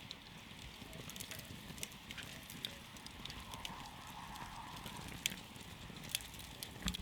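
Campfire burning, with irregular sharp crackles and pops from the wood over a soft steady hiss; the loudest pops come about five and seven seconds in.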